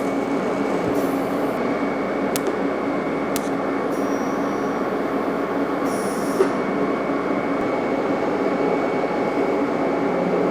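TIG welding arc on steel pipe and plate: a steady hiss and hum with a faint high tone running through it, a few light clicks, and one sharp tick about six seconds in.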